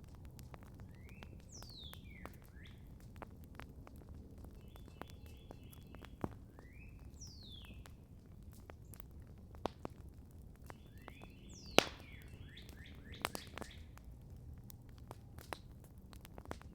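Campfire crackling with scattered sharp pops, the loudest snap near the middle, over a steady low rustle. A songbird repeats the same short phrase three times, about every five seconds: a falling whistle with short trills.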